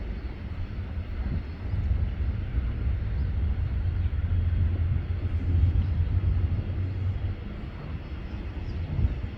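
Low jet engine rumble of an airliner on departure. It swells over the first few seconds and eases off near the end.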